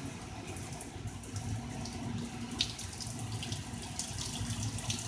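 Heavy rain pouring down steadily, with scattered sharp drips and splashes of drops.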